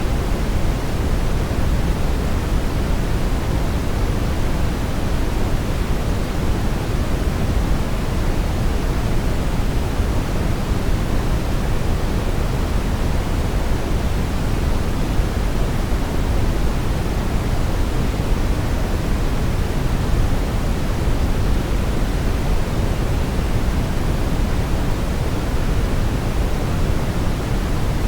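Brown noise: a steady, even hiss weighted toward the low end, with no change or pattern.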